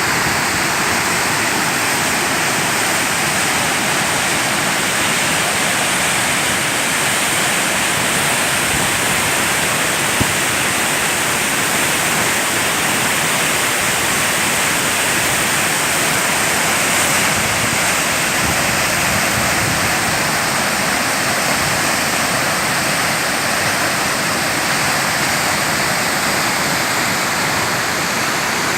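Wachirathan Waterfall: the loud, steady rush of a large waterfall's falling water.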